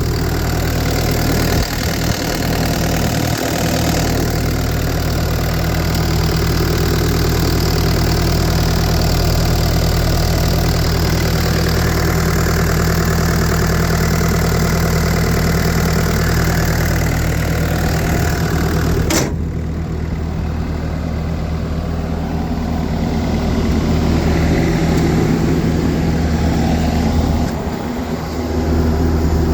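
2012 Bobcat T870 skid steer's four-cylinder Kubota diesel engine idling steadily. A single sharp click comes about two-thirds of the way through, after which the background hiss is lower.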